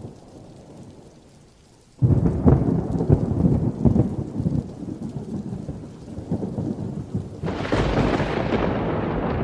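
Thunder: a sudden clap about two seconds in that rumbles on, joined near the end by the steady hiss of heavy rain.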